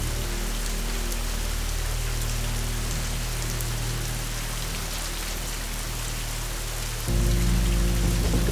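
Steady rainfall, with a low sustained musical drone held underneath that swells to a fuller, louder chord about seven seconds in.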